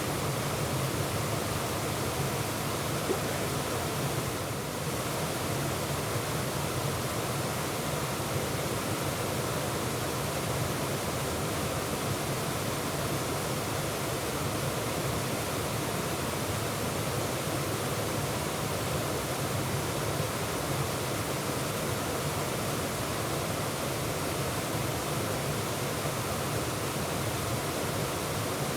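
Waterfall: water pouring over rock in a steady, unbroken rush, heard from close up in the falls.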